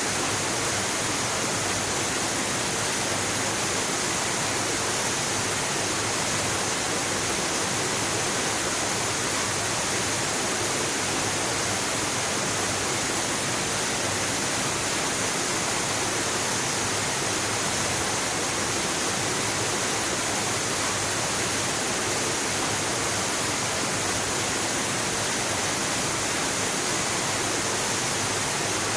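Waterfall rushing, a steady, even hiss of falling water that does not change.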